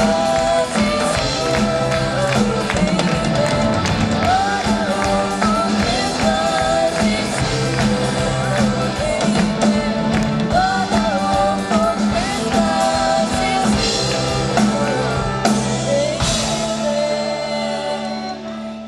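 Live band playing a song with a singer and drums. About sixteen seconds in the drums stop and a final chord is left ringing out and fading.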